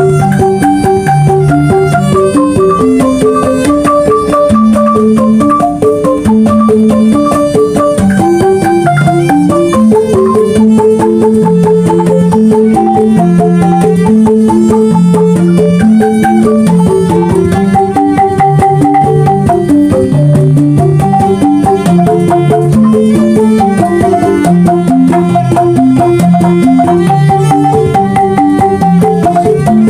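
A Banyuwangi angklung ensemble playing a traditional gending: tuned bamboo instruments are struck in a quick, stepping melody over a repeating lower line, with drum and percussion strokes throughout.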